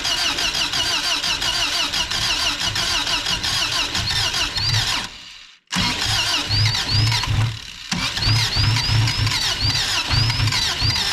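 Subaru BRAT's flat-four engine cranking on the starter and trying to run after sitting for about ten years, primed with gas poured in. Two long cranking attempts with a short pause between them, the starter whining in an even rhythm without the engine catching.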